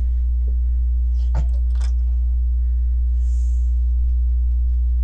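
Steady low electrical hum, with two faint clicks about a second and a half in.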